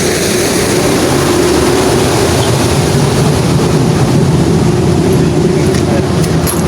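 A truck engine running steadily with an even hum, and a few faint clicks near the end.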